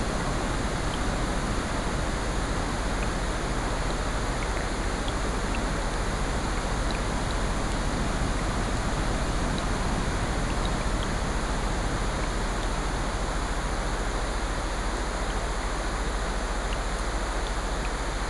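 Layered nature-sound ambience of rain, ocean surf and a fireplace: a steady rushing wash with faint, scattered small ticks.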